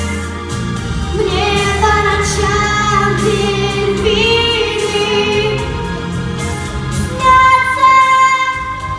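A song: a solo singing voice holding long notes, some with a wavering vibrato, over instrumental backing.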